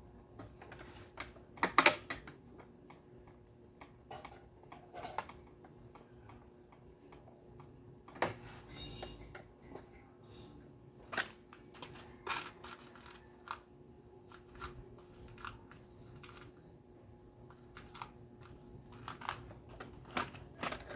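Irregular clicks, taps and light knocks from small blender parts and tools being handled during an Osterizer blender repair, with the loudest cluster of clicks about two seconds in and a short scrape near the middle, over a faint steady hum.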